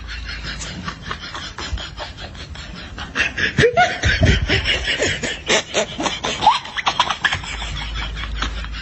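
Snickering laughter in quick, short, repeated bursts, loudest through the middle.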